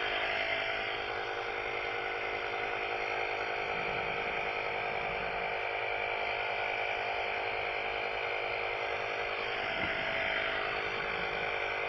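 A steady mechanical whir and hum that does not let up, with several steady tones over a faint even hiss.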